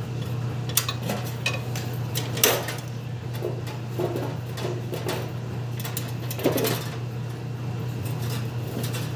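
Irregular metallic clanks and knocks as an air conditioner compressor is set and seated into the unit's base, the loudest about two and a half and six and a half seconds in, over a steady low hum.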